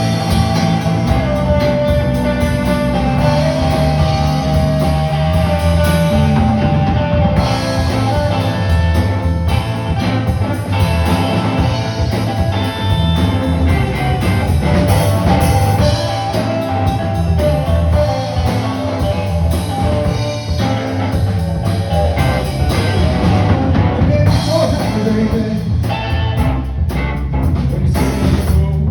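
Live rock band playing, with electric guitar, bass and a drum kit, and some singing.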